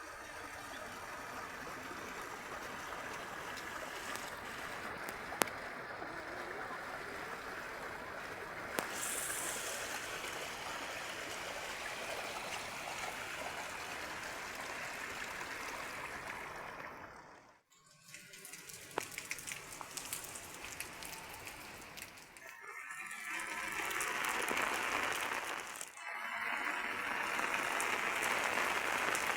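Heavy rain pouring steadily, a dense even hiss. It breaks off briefly three times in the second half, and the later stretches are louder.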